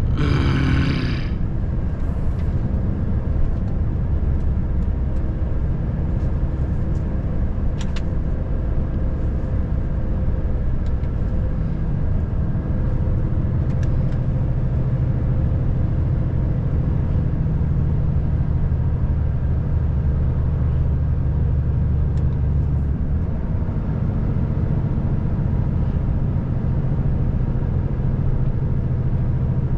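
Volvo FH540 truck's diesel engine running steadily under load, a low, even drone with road noise and a few faint clicks.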